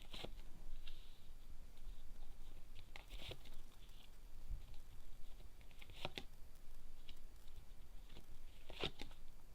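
Tarot cards being handled and shuffled: four brief, crisp rustles, about three seconds apart, over a faint room hiss.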